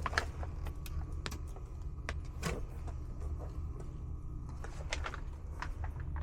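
Steady low machine hum with scattered sharp clicks and knocks of parts being handled.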